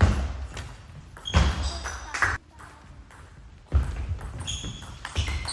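Table tennis rally: the celluloid ball clicks sharply off bats and table at irregular intervals of about a second.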